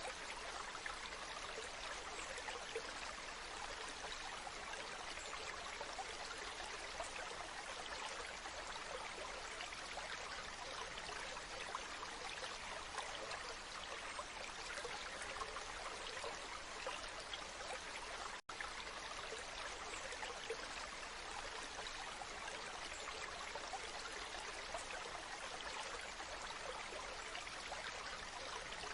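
Waterfall: a steady rush of falling water, with a split-second dropout about two-thirds of the way through.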